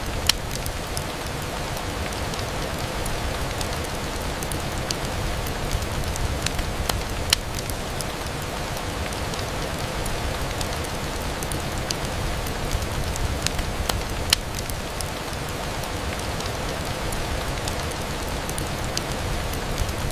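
Steady rain on a window, mixed with a fireplace, with scattered sharp pops; the loudest come about 7 and 14 seconds in.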